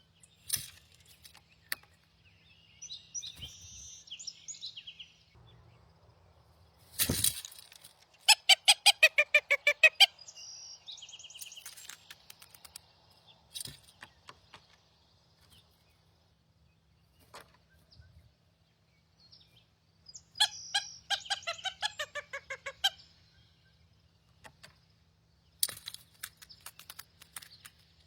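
Wild birds calling: two strings of rapid repeated notes, each lasting about two seconds, one about eight seconds in and one about twenty seconds in, with a softer call a few seconds in. A single thump comes just before the first string, and scattered clicks come throughout.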